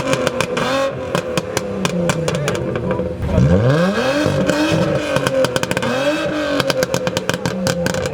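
Car engine revved in repeated blips, its pitch rising and falling, with many sharp crackles through it and a steady tone underneath.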